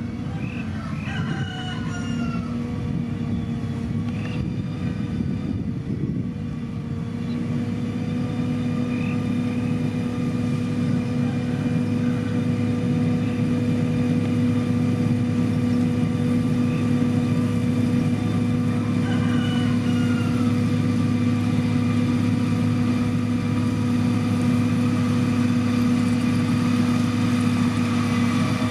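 Diesel engine of a heavy road-construction machine running steadily at a constant pitch, growing a little louder after the first several seconds. A rooster crows in the background shortly after the start and again around twenty seconds in.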